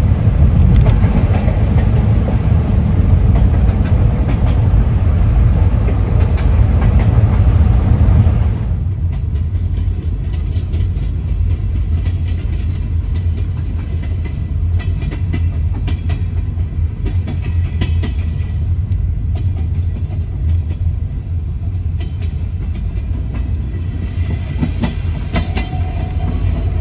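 A passenger train rolling along beside the road, heard from inside a moving car: a steady low rumble with some wheel clatter, mixed with the car's own road noise. The sound drops suddenly to a quieter level about eight seconds in.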